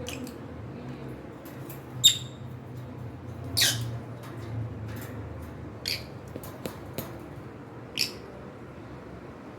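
Pet cockatiels giving four short, high chirps, the loudest about two seconds in, with a few faint clicks between them over a steady low hum.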